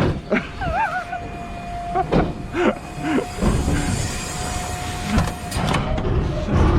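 Garbage truck running, a steady low rumble with several clunks and knocks. A thin steady tone wavers at first and then holds for about five seconds.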